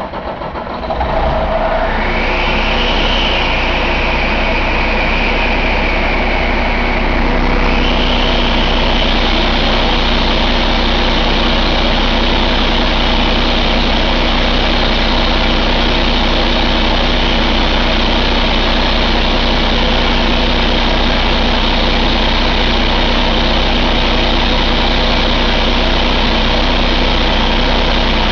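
Cummins ISX15 inline-six diesel engine catching right at the start, then running steadily at idle. A high whine rises in pitch about two seconds in and steps up again about seven seconds in.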